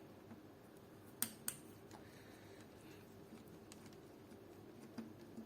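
A few sharp clicks against quiet room tone: two close together about a second in, then two softer knocks near the end. These are small parts and a hand tool clicking while the screws holding the plastic magazine-well piece of an airsoft AK are undone.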